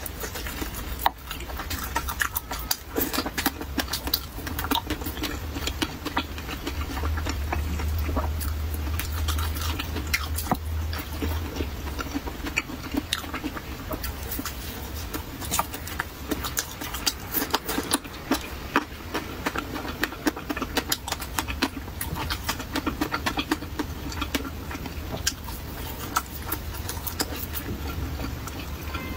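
Close-miked chewing of a soft pan-fried pumpkin pancake: a dense run of small mouth clicks and smacks, with a low rumble in the middle stretch.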